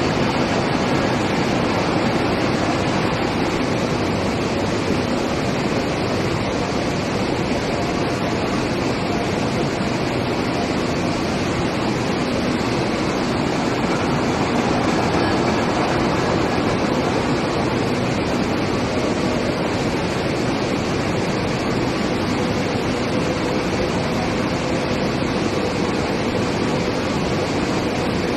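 Steady industrial noise of a steel plate induction reheating line running: an even, continuous rushing sound with no distinct knocks or rhythm.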